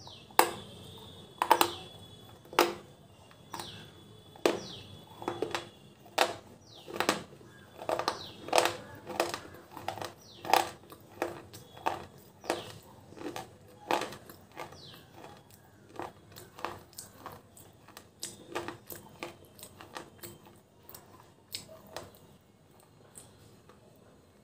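Hard, dry white clay crunching between the teeth: a loud first bite, then close-mouthed chewing close to the microphone, with sharp crunches about once or twice a second that grow softer and sparser near the end.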